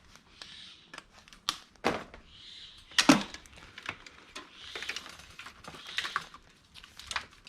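Electrical cords being cut and dropped into a bin: scattered sharp clicks and snips, the loudest about three seconds in, between soft rustling of cable.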